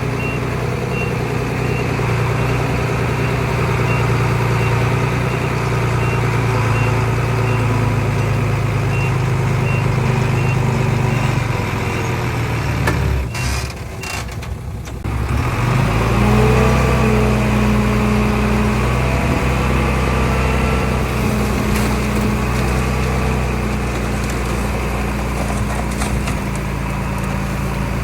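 Heavy diesel earthmoving engine running steadily under load. It dips briefly about halfway through, then revs up and runs on at a higher pitch.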